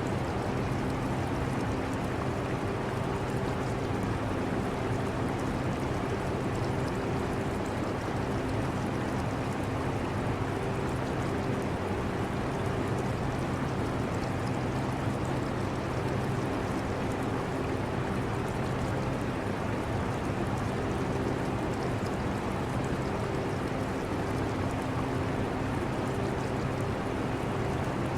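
Air conditioner running with a steady low hum and airflow noise, mixed with aquarium water trickling and bubbling.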